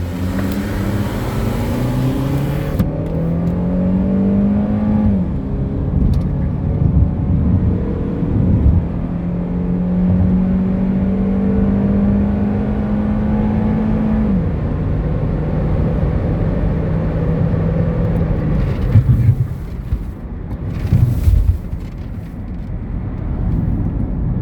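A 1.8-litre four-cylinder car engine accelerating hard from a standing start, its pitch climbing through the gears with two upshifts, about five and fourteen seconds in. It then holds steady at speed with road noise, and a few short gusty thumps come near the end.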